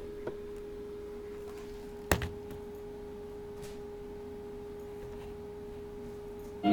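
A steady pure tone, held unchanged, with a faint click near the start and a sharp click about two seconds in.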